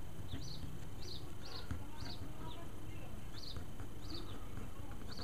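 A small bird chirping: short high chirps in quick runs, about two a second, with a pause of about a second in the middle, over a low steady background hum.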